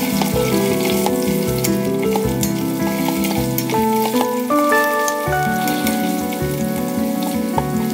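Cubed potatoes frying in hot oil in an Instant Pot's stainless steel inner pot: a steady sizzle with many small crackles as they are stirred with a plastic slotted spoon. Background music with a steady beat plays under it.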